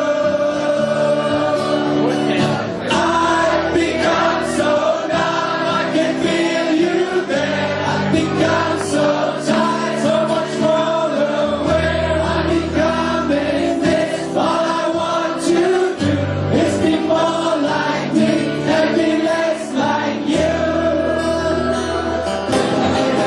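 Live rock band playing with a group of voices singing along together in chorus.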